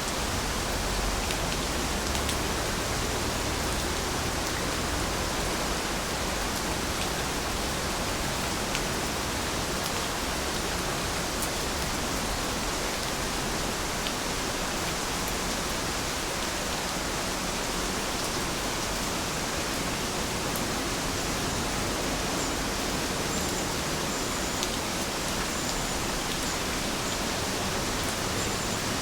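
Steady, even rain falling, a continuous hiss with scattered sharp drop ticks. A few faint short high chirps come near the end.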